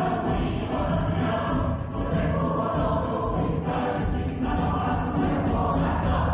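Choir singing a song from a musical, held on a sustained final chord near the end that cuts off sharply right at the close.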